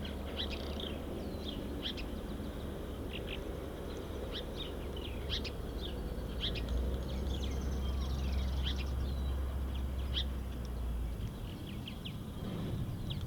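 Small songbirds chirping in quick, repeated short calls around a backyard feeder, over a steady low rumble that stops about eleven seconds in.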